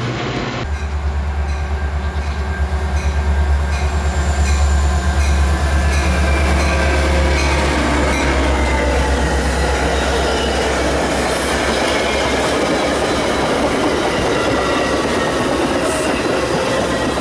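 Metra commuter train passing close by: the diesel locomotive runs with a steady low drone while the bilevel gallery cars roll past, their wheels clicking over the rail joints.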